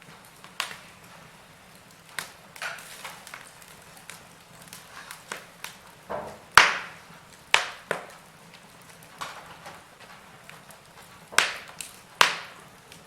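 Wood fire crackling in a fireplace: irregular sharp pops and snaps, the loudest about halfway through and a few more strong ones near the end.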